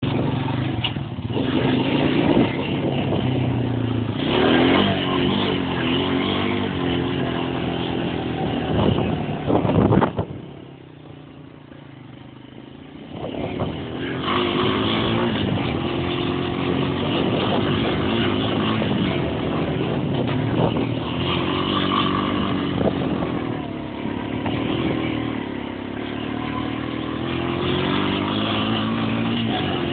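Quad bike engine revving up and down, its pitch rising and falling repeatedly. It drops away to a low level for about three seconds in the middle, then picks up again.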